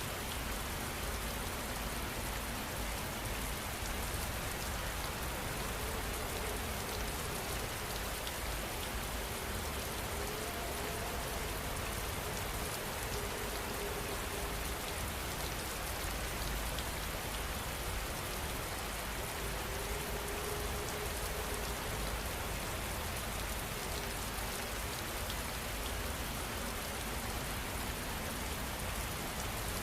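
Steady rainfall, an even hiss of drops hitting surfaces, with no thunder or breaks.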